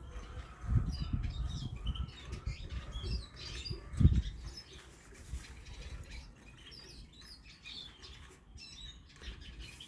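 European goldfinches twittering, with short high chirps scattered through. In the first half come low fluttering thumps, the loudest about four seconds in.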